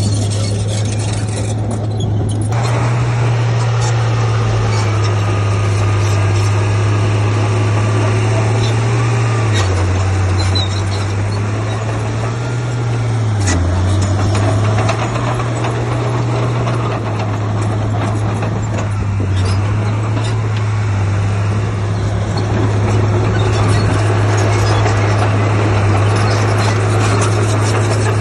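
Heavy diesel engine of earthmoving machinery running under load, a steady low drone that shifts slightly up and down in pitch as engine speed changes, with a few short knocks.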